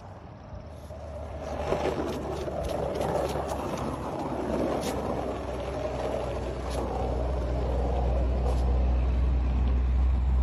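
Steady low rumble of a running motor vehicle, growing louder toward the end, with a few scattered light clicks.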